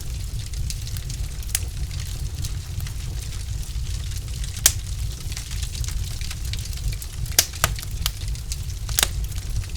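Wood fire crackling in a fireplace: irregular sharp pops and snaps over a steady low rumble. The loudest pop comes a little under halfway, with two more strong ones near the end.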